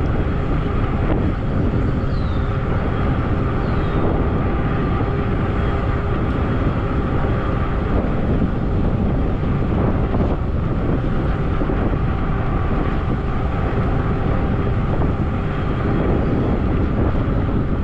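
Wind rushing over the helmet-cam microphone while riding a Zota Zephyr fat-tire e-bike at about 18 mph, with a faint steady hum from the bike under it.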